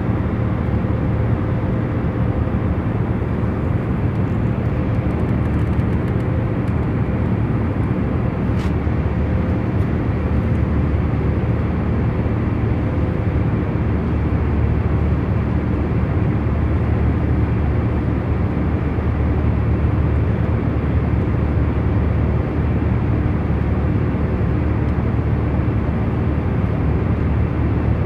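Airliner cabin in cruise: a steady, even drone of engine and airflow noise, heaviest in the low rumble, with faint steady hum tones running through it. There is a faint tick about nine seconds in.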